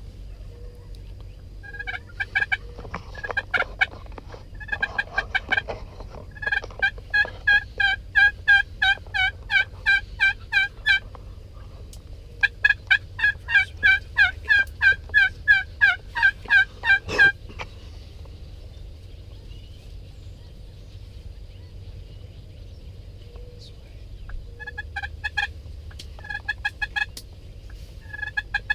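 Wild turkeys calling close by: long runs of evenly spaced yelping notes, about three a second, in four bouts with a pause of several seconds in the middle.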